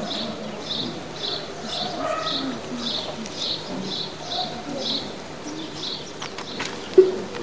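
A small bird chirping over and over, two to three short high chirps a second, which stops shortly before the end. A sharp knock comes near the end.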